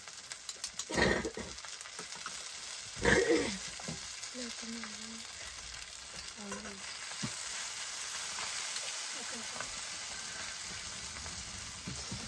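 Boiled noodles frying and being stirred in a hot wok: a steady sizzle with two loud sudden sounds about one and three seconds in.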